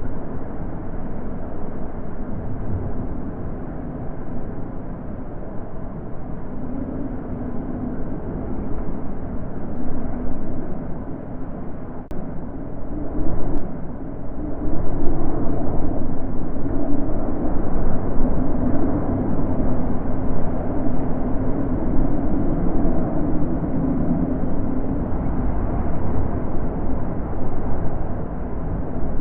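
Wind blowing in gusts: a low, rushing noise that swells and eases, growing louder about halfway through.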